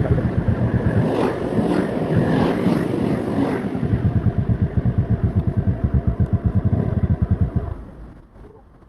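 Motorcycle engine running at low speed, a rapid even pulsing of its exhaust, which falls away suddenly near the end.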